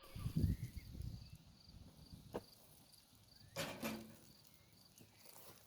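Faint, evenly repeated high chirping, about two or three a second, typical of an insect such as a cricket, over a low wind rumble on the microphone in the first second or so. A sharp click a little past halfway and a short, louder rustling clatter soon after.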